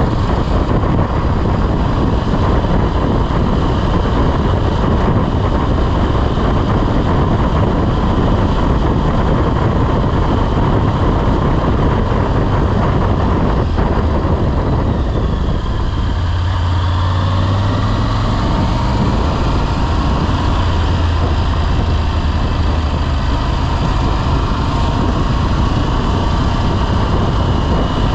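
Motorcycle in motion on the road: wind rushing over the microphone with the engine running underneath. About halfway through the engine note falls, then settles into a stronger low steady hum.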